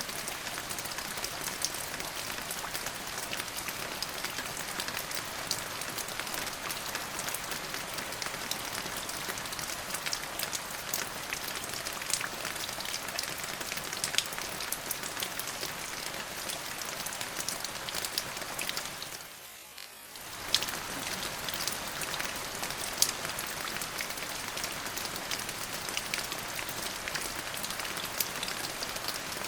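Steady rain falling, an even hiss with many individual drops ticking sharply on a hard surface. The rain fades briefly for about a second two-thirds of the way through, then returns at the same level.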